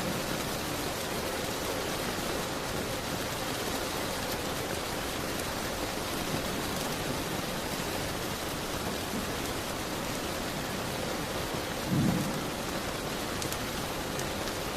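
Steady rain beating on a window. About twelve seconds in there is one brief low thump, the loudest moment.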